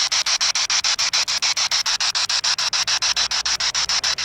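Spirit box sweeping through radio stations: a steady hiss of static chopped into about eight short pulses a second.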